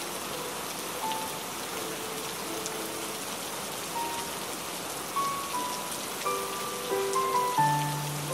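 Steady rain falling, with a slow melody of soft single notes over it; a low held note comes in near the end.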